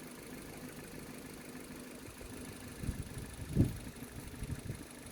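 Ford Focus 2 engine idling faintly and steadily, with a few irregular low thumps in the second half.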